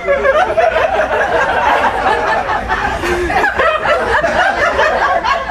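Passengers chattering and laughing all at once, many voices overlapping with no single speaker standing out.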